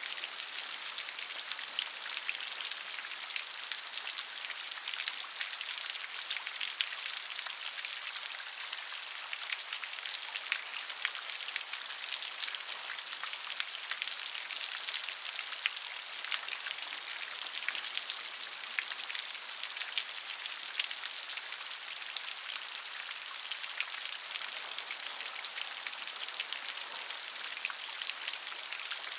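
Steady rain with many individual drops pattering on a surface, a dense hiss sprinkled with crisp ticks.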